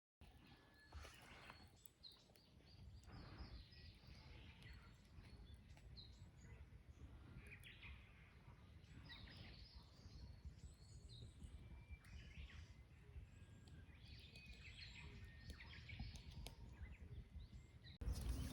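Faint birdsong: several birds chirping on and off over a low outdoor rumble.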